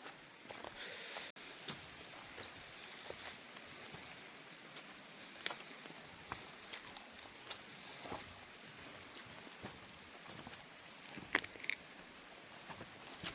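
An insect calling in a high, evenly pulsed chirp repeated a few times a second, over a faint background hiss with scattered sharp clicks.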